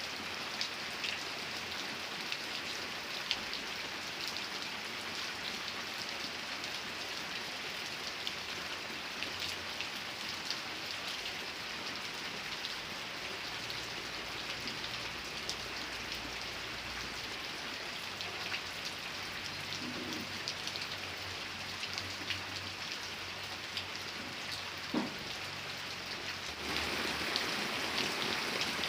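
Steady rain falling, with individual drops ticking sharply through the hiss. Near the end it suddenly becomes louder.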